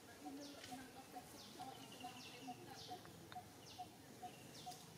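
Faint outdoor bird calls: a low note repeated about twice a second, with higher calls that sweep down and end in a short trill, over and over.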